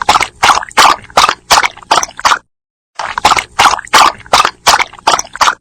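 A dog lapping water from a bowl, a quick run of wet laps at about three a second, then a pause of about half a second, then a second equal run.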